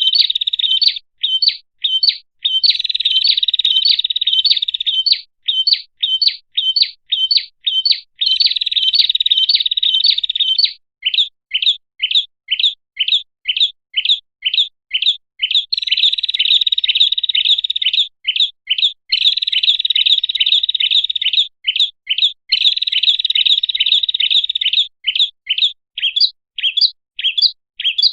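Prinia (prenjak) song played as a bird-lure call: stretches of rapid, buzzy high trills alternating with runs of separate sharp chirps at about three to four a second, repeating throughout.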